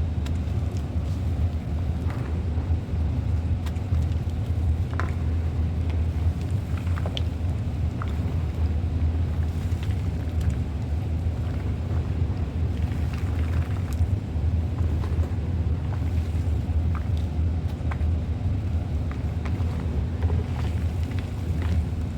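A steady low rumble, with scattered faint crackles and crunches of reformed gym chalk crumbling.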